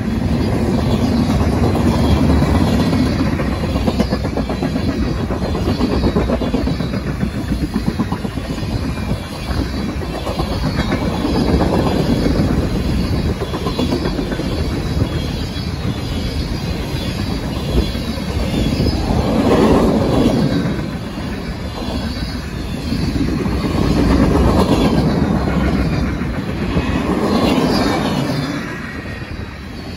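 Mixed freight train of boxcars, tank cars and gondolas passing close by: a continuous rumble of steel wheels rolling on the rails, swelling and easing several times as the cars go by.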